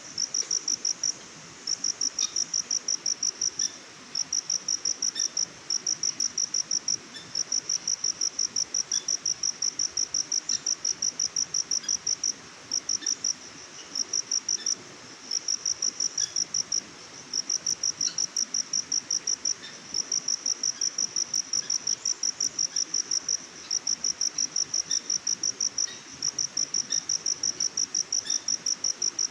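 An insect chirping in rapid, evenly spaced high pulses, in runs of one to two seconds broken by short pauses, over a faint steady hiss.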